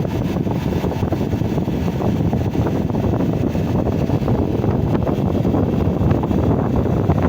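Wind buffeting the microphone: a steady, uneven low rumble with no clear tone.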